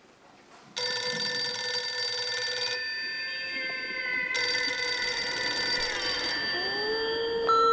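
Telephone ringing twice, each ring about two seconds long and going unanswered, with slow gliding tones underneath. A steady beep starts right at the end.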